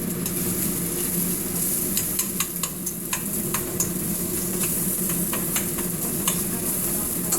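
Chopped onion sizzling in hot oil in a frying pan as it is stirred, with frequent clicks of the utensil against the pan over a steady low hum.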